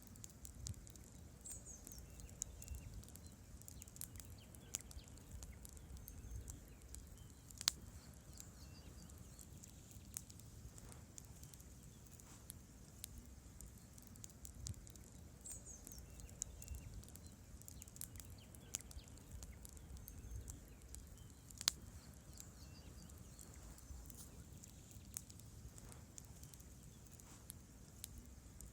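Wood campfire crackling: burning logs give many small pops and ticks over a low steady rush of flame, with two sharp louder snaps, about eight seconds in and again about twenty-two seconds in.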